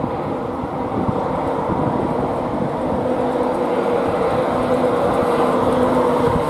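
A train running through the station, its rumble growing steadily louder, with a steady humming note over it.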